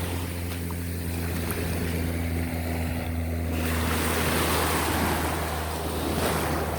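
Steady low drone of an airplane engine passing over, with surf washing on the beach. The waves swell up about four seconds in.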